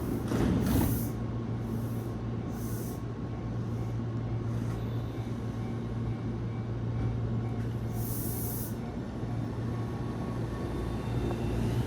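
Tobu electric commuter train at a station: a steady low hum with short high hisses, and near the end a rising motor whine as a train starts to move.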